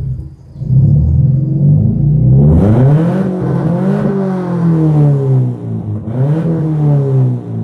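Subaru Impreza 2.2-litre flat-four running through a custom cat-back exhaust: a low idle, then a rev that climbs to a peak about four seconds in and drops back, and a shorter blip near the end.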